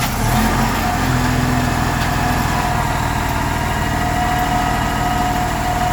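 Compressed-natural-gas engine of a Blue Bird All American rear-engine school bus, just started, catching right at the beginning and settling into a steady idle. A steady whine joins the engine sound about a second in.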